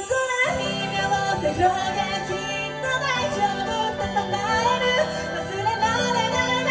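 Live band music with a sung vocal line over held bass notes.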